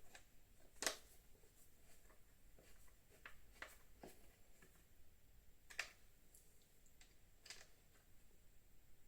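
Faint, scattered clicks and light taps of tools and motorcycle parts being handled, the two sharpest about a second in and just before six seconds in, over near silence.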